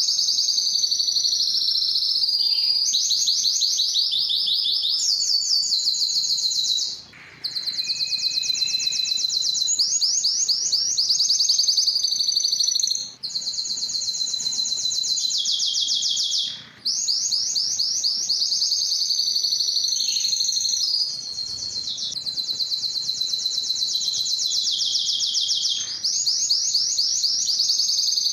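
Male Spanish timbrado canary singing: long, rapid trills and rolls of fast repeated notes, changing phrase every second or few. It breaks off briefly three times, about 7, 13 and 17 seconds in.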